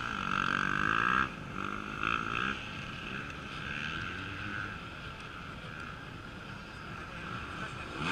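Off-road dirt-bike engines revving, pitch rising and falling as the bikes work through the course; loudest in the first second, then a steadier, quieter engine note.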